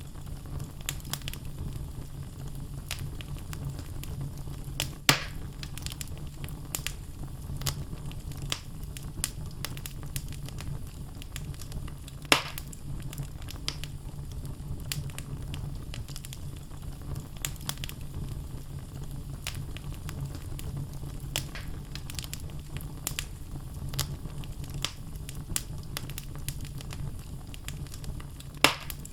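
Wood logs burning in a fireplace: a steady low rumble of flame with frequent small crackles. Three louder pops sound about five seconds in, about twelve seconds in and near the end.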